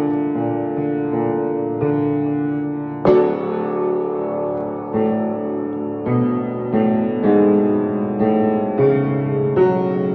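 Solo piano playing a passage of chords, each struck and left to ring, with new chords coming more often toward the end.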